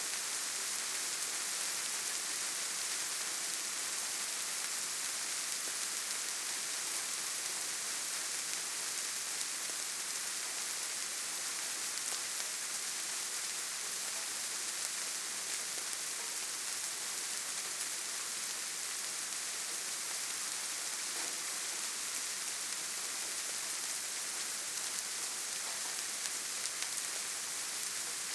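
Steady rainfall: an even, constant hiss with no single drops or other sounds standing out.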